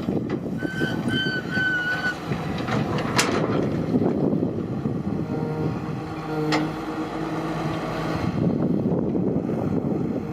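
Excavator diesel engine and hydraulics working, a steady rumble that rises into a pitched drone about halfway through. Three short high squeals sound in the first two seconds, with a couple of sharp clicks later.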